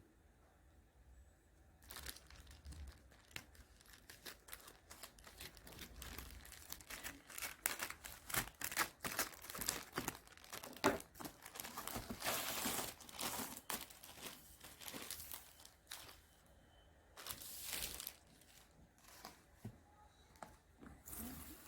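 Irregular crinkling and rustling handling sounds, broken by many small clicks and taps. The busiest stretch is in the middle, with a shorter burst of rustling near the end.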